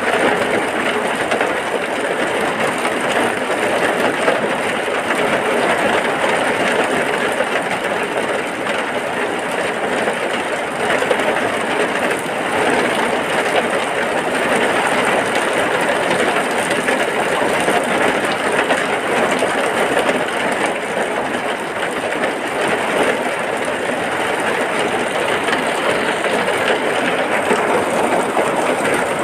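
Heavy rain falling steadily: a dense, even rushing hiss with no let-up.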